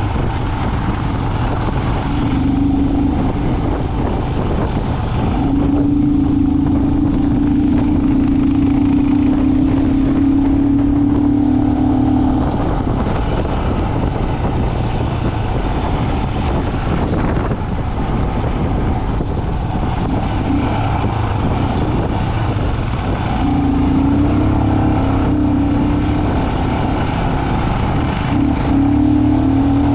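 Road vehicle driving: a steady engine rumble with road noise, and a humming engine note that comes in for stretches of several seconds, the longest about seven seconds, then drops away.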